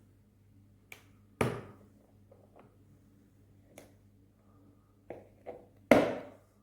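Clicks and knocks of hard objects being handled and set down: a light click, then a loud knock about a second and a half in, a few lighter taps, and another loud knock near the end. No drill motor runs.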